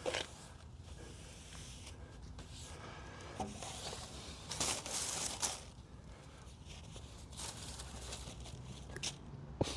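Faint rustling and crinkling handling noise in short bursts, strongest about halfway through, with a sharp click near the end.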